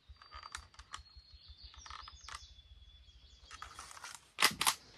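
Handheld price labelling gun being worked: small clicks as its dial is set, then a few loud sharp clacks about four and a half seconds in as the trigger is squeezed to print and spit out a price tag. A faint thin high steady tone runs underneath for the first few seconds.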